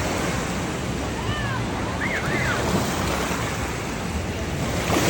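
Water-park wave pool: a steady rush of waves washing in, with wind buffeting the microphone. A few short high chirps come through between one and two and a half seconds in.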